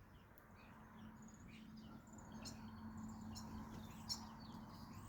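Faint outdoor background: small birds chirping now and then, over a low steady hum that fades after about three seconds.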